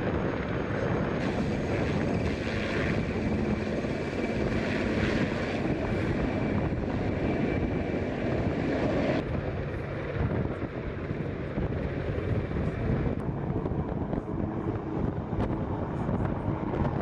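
Steady aircraft engine noise with wind buffeting the microphone; the sound changes abruptly about nine seconds in.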